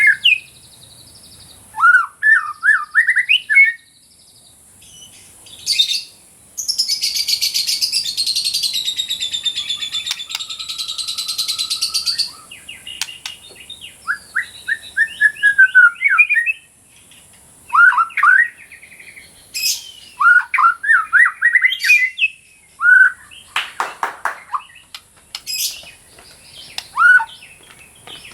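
White-rumped shama (murai batu) singing: short, rapid whistled phrases repeated every second or two, with a long harsh chattering passage from about 6 to 12 seconds in. A steady high hiss runs underneath.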